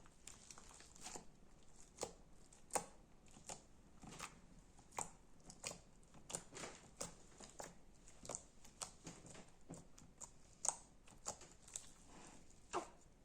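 Slime being squeezed and poked by hand, giving irregular sharp clicks and pops, two or three a second.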